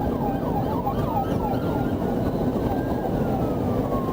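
Police siren wailing, its pitch rising slowly and then falling away near the end, with quick repeated yelping sweeps overlapping it in the first second and a half. Steady road and engine noise runs underneath.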